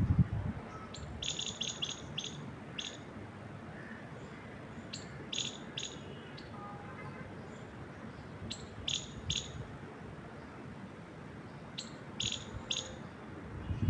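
Small birds chirping in short runs of quick, high chirps, four runs a few seconds apart, over a steady hiss of wind through trees. There is a low rumble at the very start and another near the end.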